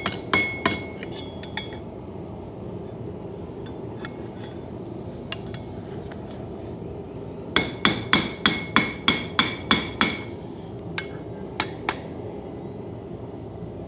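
Hand hammer striking hot coil-spring steel on an anvil, each blow ringing, as the knife's handle is drawn back out. There are a few blows at the start and scattered light taps, then a quick run of about ten blows, about four a second, and a few single strikes near the end.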